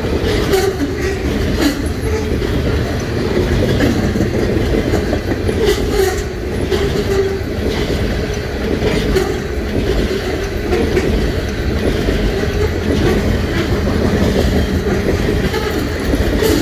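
Freight train of covered grain hopper cars rolling past, a steady rumble with the wheels clacking over the rail joints.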